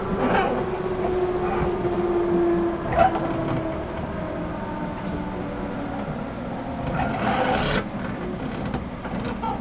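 Running sound inside the motor car of a JR 211 series 5000 electric train: steady rumble of wheels on rail with a motor hum that falls slowly in pitch, a sharp click about three seconds in, and a brief high squeal about seven seconds in.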